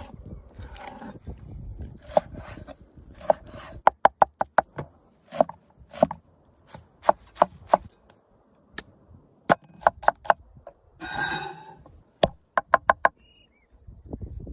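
Knife chopping food on a cutting board: sharp separate knocks, often in quick runs of three to five, with a short scraping rush about three-quarters of the way through.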